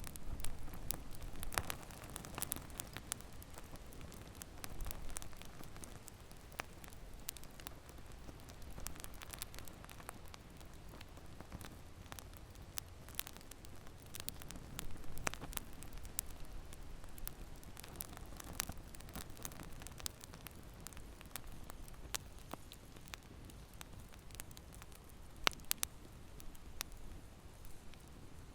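Wood fire crackling: irregular sharp pops and clicks, a few of them louder, over a soft, steady noise of burning.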